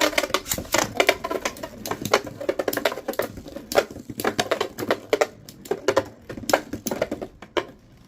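Two Metal Fight Beyblade spinning tops, Galaxy Pegasus and Lightning L-Drago, clashing again and again in a plastic stadium. Rapid, irregular clacking of metal and plastic, many hits a second, which stops near the end.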